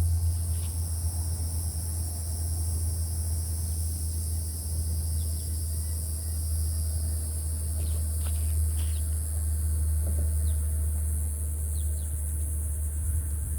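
Outdoor shoreline ambience: a steady low rumble runs under a constant high, insect-like hiss. A few short bird chirps come about two-thirds of the way through.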